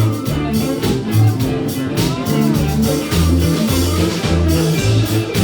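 A band playing a rock-blues number, with a drum kit keeping a steady beat, a bass line moving between held notes, and electric guitar; a short bending note sounds about two seconds in.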